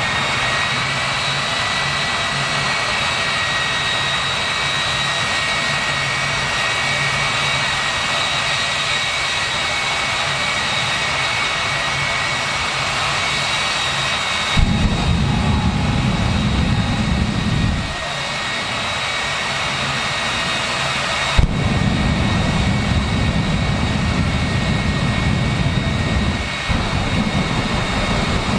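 Jet dragster's turbine engine running with a steady high whine. A loud deep rumble cuts in suddenly twice, once for a few seconds and again for longer near the end.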